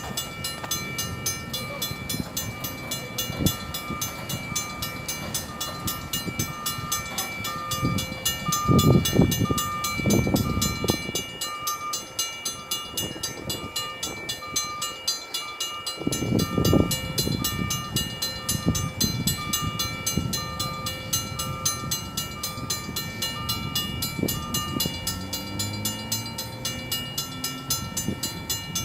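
Safetran mechanical crossing bell ringing with rapid, even strikes at a railroad grade crossing, over the rumble of a train on the rails that swells louder a few times.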